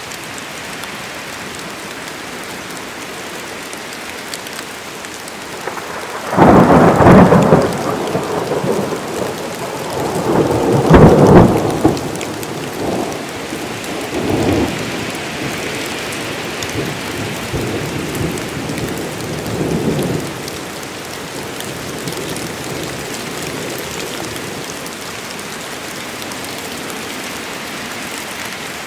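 Steady rain falling, with a sudden loud thunderclap about six seconds in that rolls on as rumbling thunder, peaks again around eleven seconds and dies away after about twenty seconds.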